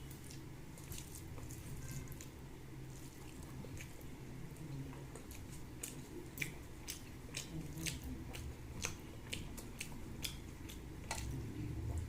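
A person eating rice and curry close to the microphone: wet chewing and mouth sounds with many sharp little clicks and smacks, thickest in the second half. A steady low hum runs underneath.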